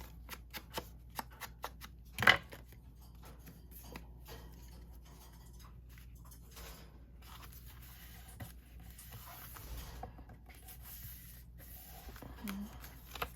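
Paper being handled for a journal: soft rustling with a run of small clicks and snips, and one sharper tap about two seconds in.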